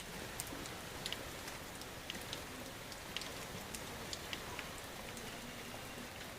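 Steady rain falling: an even hiss with scattered drops ticking sharply on surfaces.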